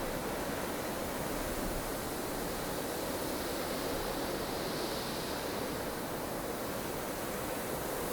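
Blustery snowstorm wind blowing as a steady rushing hiss, with a faint swell in the higher hiss about halfway through.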